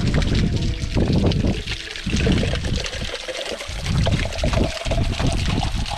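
Mountain water trickling and running, with an irregular, rushing low surge about once a second.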